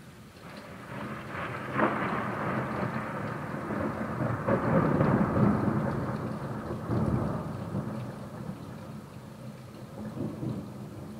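A long roll of thunder over steady rain, swelling about a second in, loudest around the middle and dying away near the end.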